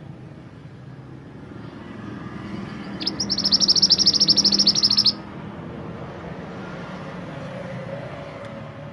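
A mantenan gunung songbird sings one fast, high trill of rapidly repeated notes lasting about two seconds, starting about three seconds in and cutting off abruptly. A steady low rumble runs underneath.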